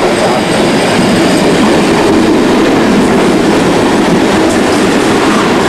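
Passenger train on a heritage railway running along the line, a steady rumble of wheels on the rails.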